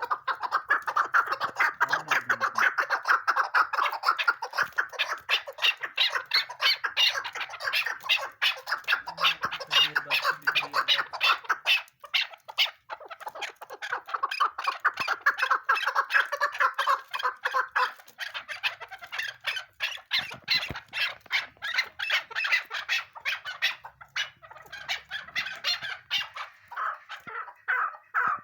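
Female chukar partridge calling: a long, rapid run of short repeated notes, several a second, with a brief pause about twelve seconds in.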